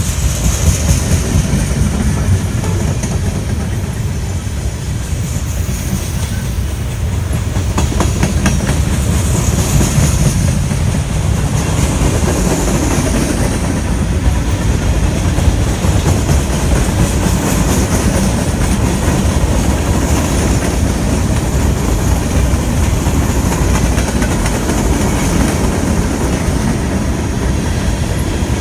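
Freight cars of a long freight train rolling past, the wheels clacking over rail joints with a steady low rumble and a faint high wheel squeal near the start.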